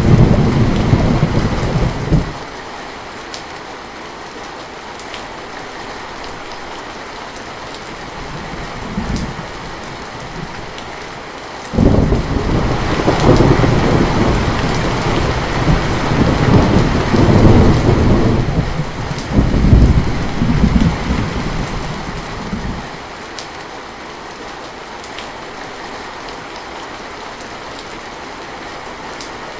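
Steady heavy rain with rolling thunder: a short rumble at the start, a faint one about nine seconds in, and a long, loud roll from about twelve seconds in that lasts some ten seconds before fading back to the rain.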